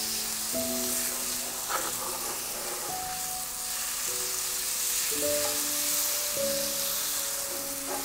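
Chicken pieces sizzling in hot garlic oil in a frying pan, stirred with a wooden spatula, with a brief scrape about two seconds in. Soft background music with held notes plays underneath.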